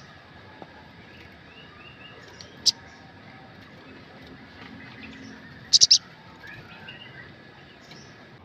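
Olive-backed sunbird giving sharp, high-pitched chirps: a single chirp about a third of the way in, then a quick run of three or four chirps a little past halfway. Softer bird chirps and a faint steady tone run underneath.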